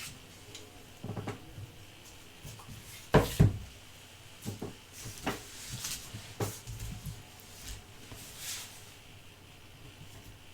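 Close-up handling sounds: scattered light taps and clicks, a louder double knock about three seconds in, and a few brief rustles.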